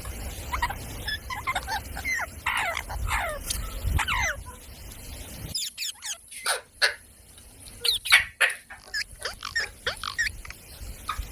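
Parrot calls: a run of short squawks and chirps, many sliding down in pitch, repeated irregularly. About halfway through, a low background rumble stops suddenly and sharper, louder squawks follow.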